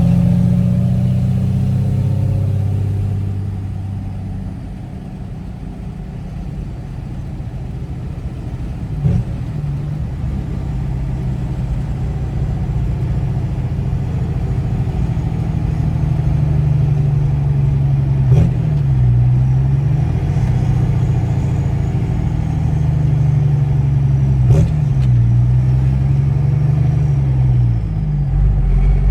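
Old pickup truck's engine running while driving, its pitch dipping and climbing again a few times as engine speed changes. Each dip comes with a short sharp knock.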